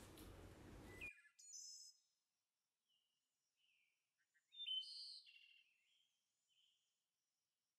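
Near silence broken by faint, short, high bird chirps: a brief one about a second in and a louder cluster of chirps around four and a half seconds in.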